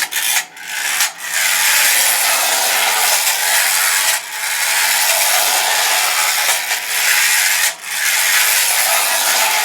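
Clockwork motor of a Technofix 245 shunting train whirring steadily as the toy runs along its track, with a few brief breaks.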